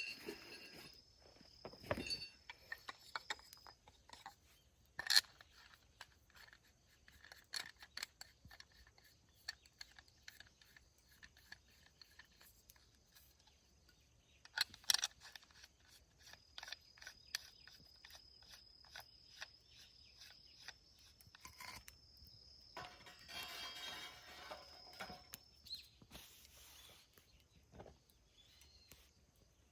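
Insects singing in a steady high note that drops out for a while and returns, over scattered sharp clicks and taps. A louder rustling stretch comes near the end.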